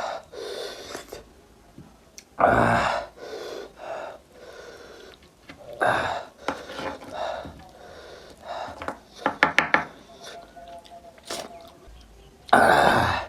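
Close-mic eating sounds from mutton nalli (lamb marrow bones): sucking and slurping at the bones, with chewing and breaths. There are two loud sucks, about two and a half seconds in and near the end, and a quick run of clicks about nine and a half seconds in.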